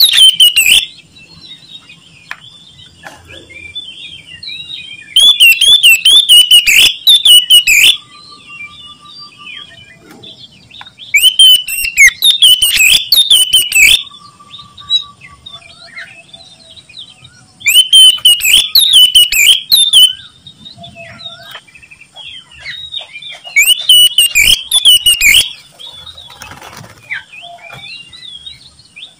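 Oriental magpie-robin singing loudly in repeated bursts of rapid, varied whistled notes, each burst lasting a couple of seconds and coming back about every six seconds. Between the bursts, fainter bird calls and short trills are heard.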